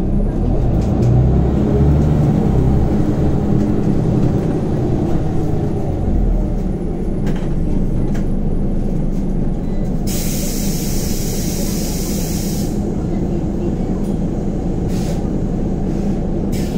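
Cabin noise of a Scania Omnicity CN94UB city bus under way, its diesel engine and drivetrain running with a steady low drone, heavier for the first several seconds. About ten seconds in, a loud hiss of released compressed air from the bus's pneumatics lasts about two and a half seconds and cuts off sharply.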